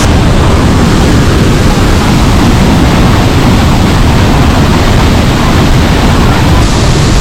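The Pailón del Diablo waterfall: a large cascade's water pounding down close by, a loud, steady rushing noise heavy in the low end. It is really loud.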